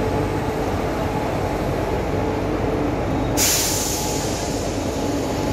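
Indian Railways electric locomotive running slowly past along the platform, a steady rumble of motors and wheels. About three and a half seconds in, a loud hiss starts and holds.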